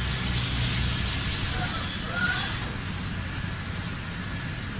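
Machinery running with a steady low hum and hiss, with a brief rising squeal about two seconds in.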